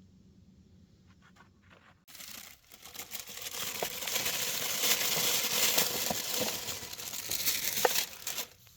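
Aluminium foil being crinkled and unwrapped, starting about two seconds in as a dense crackling with sharp crisp snaps, stopping just before the end.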